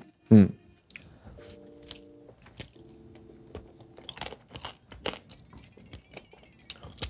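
Close-miked chewing of Chinese barbecued meats on rice: irregular wet mouth clicks and soft crunches.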